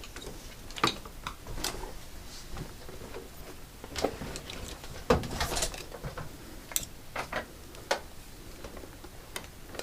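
Irregular small clicks and knocks of hands working on a washing machine, with a louder knock about five seconds in.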